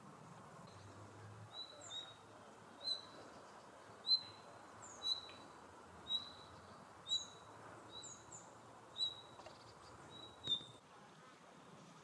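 A bird calling: a short, high note repeated about once a second, some ten times, over a faint steady background hiss.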